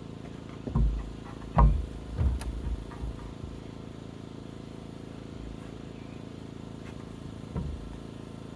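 A handful of dull thumps and knocks, the loudest about a second and a half in and another near the end, over a steady low hum.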